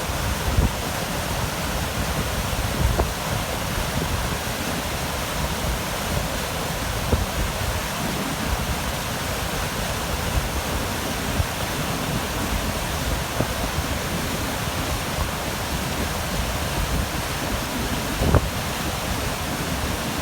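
Steady rushing wind noise with gusty low buffeting of wind on the microphone.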